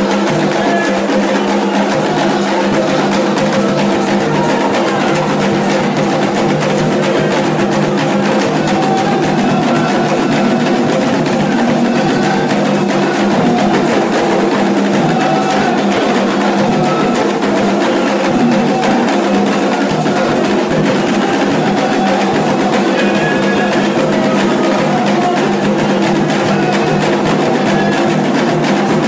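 Candomblé ceremonial music: drums and percussion playing continuously and steadily.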